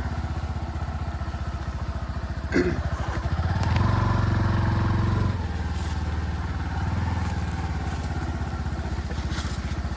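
Motorcycle engine running at low revs. It picks up for a second or two near the middle, then settles back. A single knock comes about two and a half seconds in.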